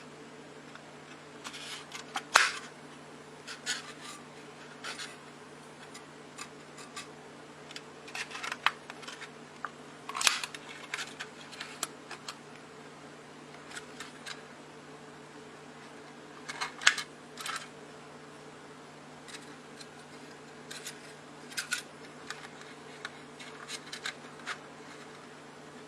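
Irregular clicks and taps of small hard objects being handled, a few louder knocks among them, over a steady low hum.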